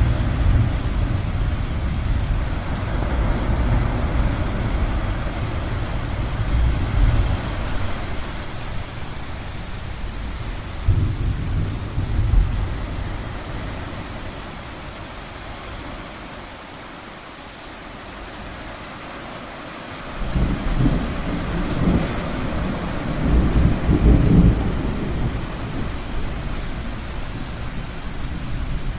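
Low rolling thunder rumbling over a steady rushing wash of ocean surf. The rumble dies away about halfway through, then a new roll of thunder builds about two-thirds of the way in.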